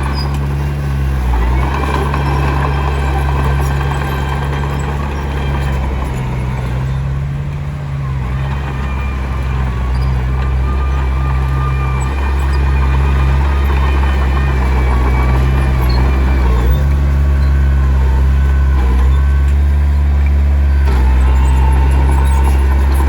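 Komatsu D21P crawler bulldozer's diesel engine running under load, with a wavering high whine over the engine note. The engine grows louder about two-thirds of the way through.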